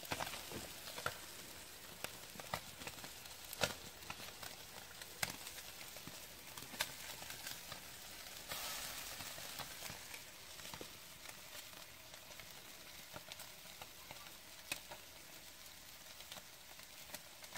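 Gövce fish sizzling on a grill grate over glowing fireplace embers: a quiet, steady hiss with scattered crackles and pops. The hiss swells for a couple of seconds about eight seconds in.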